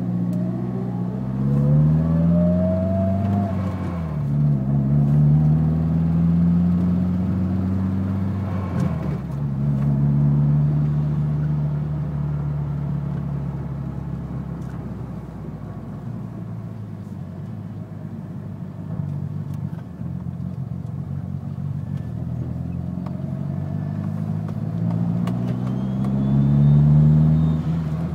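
Mitsubishi Lancer Evolution's 4G63 turbocharged four-cylinder engine being revved up and held, easing back and rising again a few times. A ticking comes in from about 2000 rpm.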